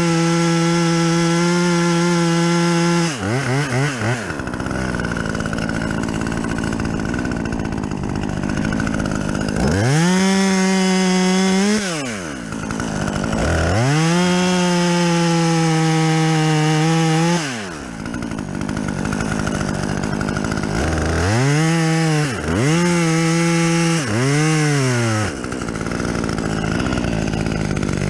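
Gas chainsaw cutting a fir top. It revs to full throttle and drops back several times, with longer stretches where the pitch sags under load as the chain cuts through the wood. Near the end there is a quick run of short revs.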